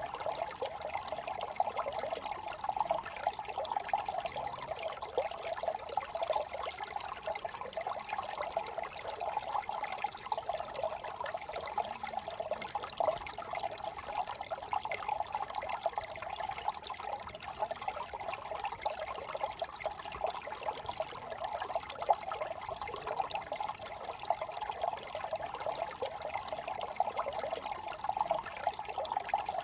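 Small brook trickling and babbling over stones, a steady even flow.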